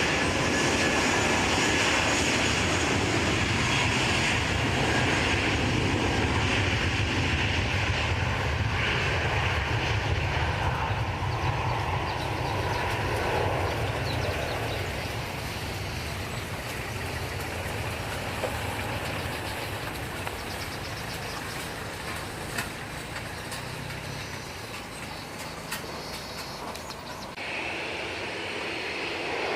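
Airliner's engines running, loud at first and slowly fading away. The sound changes abruptly near the end.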